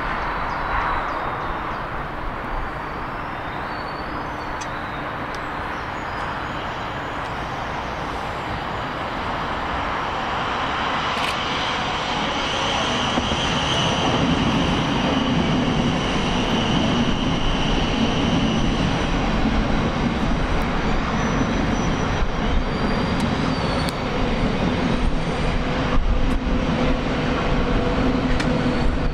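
A train passing on the line below, its rumble growing louder from about halfway through, with a high whine for several seconds.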